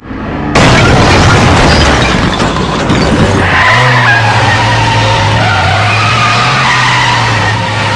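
Loud vehicle noise starting suddenly about half a second in: a steady rushing of road and wind noise over a low engine hum.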